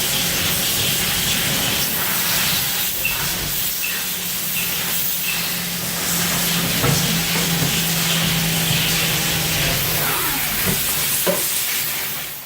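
Haas VF-2SS CNC vertical mill running, with a loud steady hiss throughout and a steady low hum from about three seconds in to about ten seconds in.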